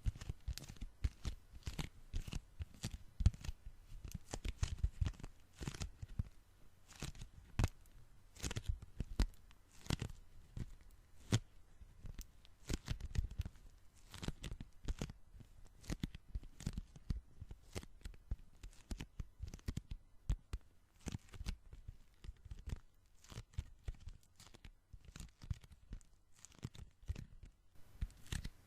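Sticky hands pressed together and peeled apart again and again: a fast, irregular run of small tacky pops and crackles.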